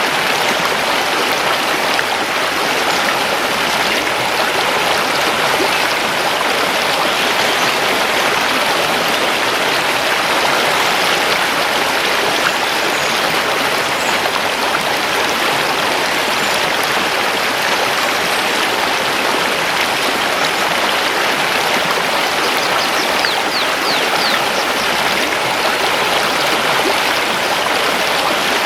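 Mountain river rushing steadily over stones, an even unbroken water noise. A few faint, quick high bird chirps come through the rush about three-quarters of the way in.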